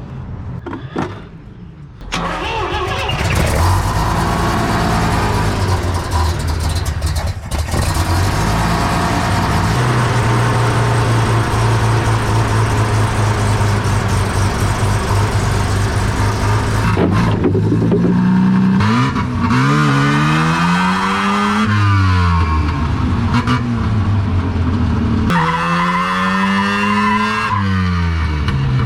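Mazda RX-7's rotary engine starts about two seconds in and runs at a steady idle. In the second half it is revved up and let fall back twice.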